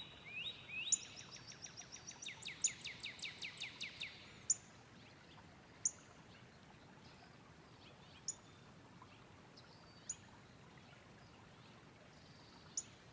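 Birds calling: a few rising whistled notes, then a quick run of about a dozen falling notes, with a sharp high chip every second or two over a faint steady hiss.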